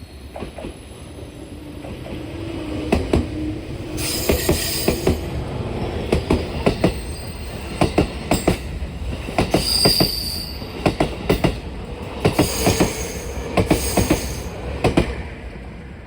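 Train wheels running over rail joints: a rumble with repeated sharp clacks, often in close pairs, and high-pitched wheel squeal coming and going from about four seconds in.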